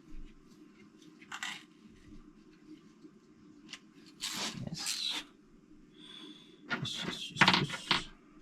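Engine parts and tools being handled: scattered short clicks and three spells of rustling and scraping, the loudest near the end, over a steady low hum.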